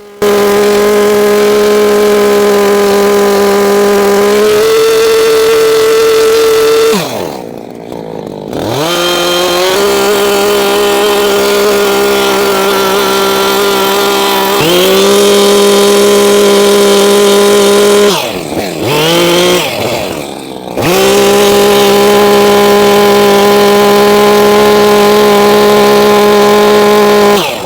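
Chainsaw running at high revs while carving into a log, its note steady for long stretches. Twice the throttle is let off and the engine note falls away, then it revs back up to full speed.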